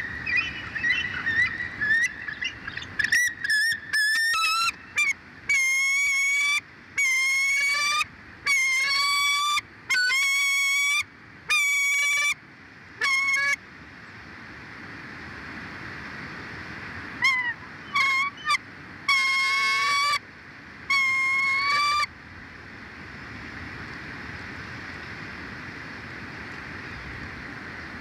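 A bird calling over and over: about a dozen drawn-out, even-pitched honking calls, each under a second, in two bouts, after a few shorter chirps at the start, over a steady wind-like hiss.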